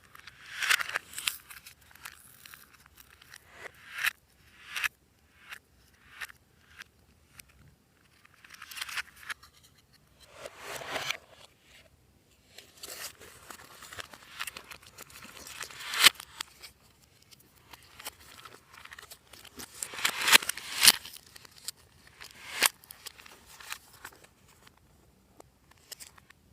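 Glossy slime being kneaded and stretched by hand, giving irregular crackling pops and squelchy swishes in bunches, with short pauses between them.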